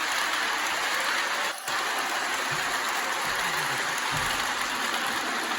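MTH Propane Turbine model locomotive running flat out at about 40 scale miles an hour: a steady rushing hiss of wheels, motors and turbine sound effect, briefly dropping out about one and a half seconds in.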